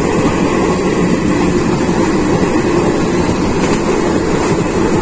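Steady running rumble of a moving passenger train heard from its open doorway: wheels on the rails and rushing air, even throughout, with no distinct clicks.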